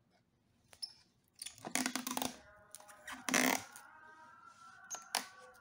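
Handling noises from working on an opened iMac: a faint click, then two short rustling, scraping rushes of sound. From about halfway, faint background music with steady held tones comes in.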